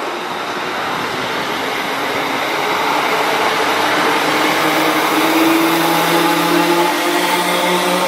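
A train at the station platform, its mechanical drone growing steadily louder, with a steady low hum coming in about halfway through.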